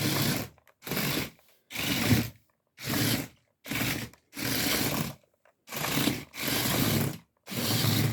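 WowWee Chip robot dog's small gear motors whirring and grinding in about nine short bursts, its plastic gears worn enough that the owner plans to replace all four wheel gears.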